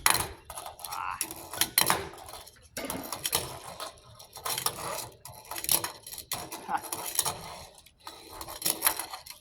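Tech Deck fingerboard clattering on a hard surface: the small deck snapping, flipping and landing in a string of sharp clicks and clacks, with short rolls of its tiny wheels, as tricks are tried and missed.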